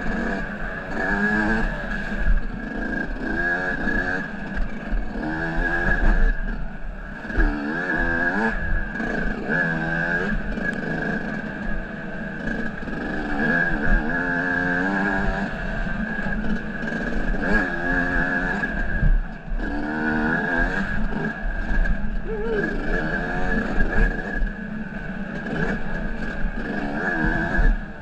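Off-road motorcycle engine revving up and down over and over under riding load. Its pitch rises and falls every second or two.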